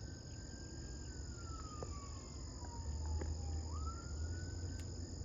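A distant siren wailing: a single thin tone that climbs slowly, falls over a couple of seconds, then jumps back up and climbs again. Beneath it is a steady high-pitched insect drone.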